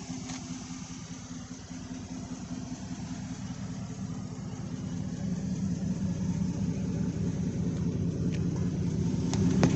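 Chevy Avalanche pickup's engine idling with a steady low hum that grows louder toward the end, with a couple of light clicks near the end.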